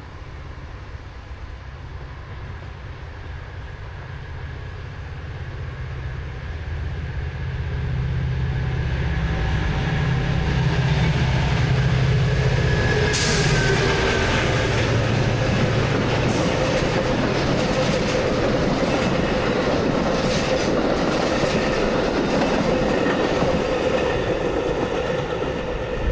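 Metra commuter express train approaching and passing at speed. A steady low locomotive drone builds over the first ten seconds or so, then gives way to a loud rush of wheel noise with many sharp clicks as the wheels cross the switches of a crossover onto the near track.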